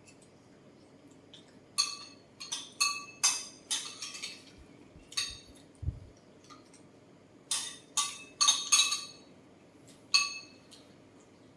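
Cutlery clinking against a dish, about a dozen ringing clinks in small runs, the busiest run about eight seconds in.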